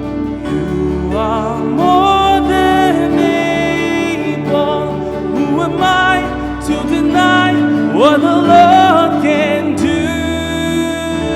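Live worship band music, a slow gospel-style song, with a singer's wordless sliding, wavering vocal lines over sustained instrumental chords.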